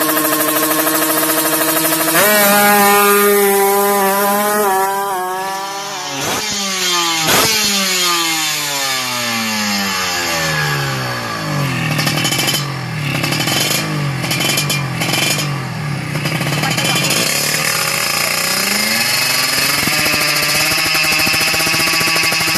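Kawasaki Ninja 150's two-stroke single-cylinder engine running and being revved. It steps up about two seconds in, is blipped sharply twice around six to seven seconds in, then falls back and runs steadily lower before rising again and holding near the end.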